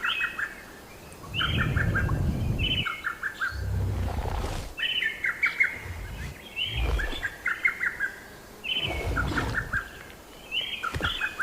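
A bird sings the same short phrase over and over, about every one and a half to two seconds: a high note and then a quick run of four or five chirps. Low rumbles, each about a second long, come and go underneath it several times.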